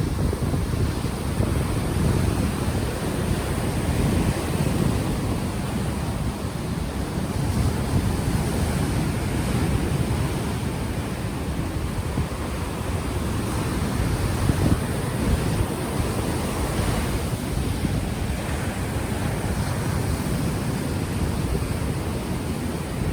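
Ocean waves washing onto the shore in gentle swells, with heavy wind buffeting on an unshielded microphone.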